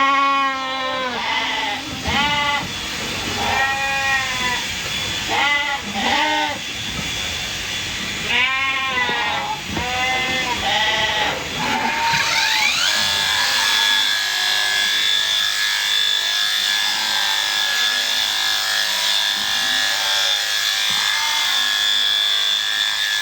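Sheep bleating repeatedly. About halfway through, an electric shearing handpiece starts up with a rising whine and then runs at a steady high pitch.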